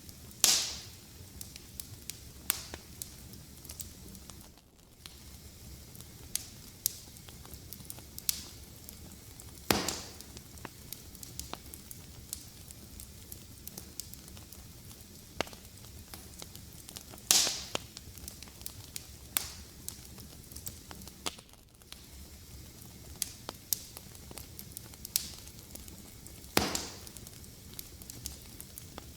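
Wood fire crackling under a steady low hiss, with scattered sharp snaps and four louder pops spread through it.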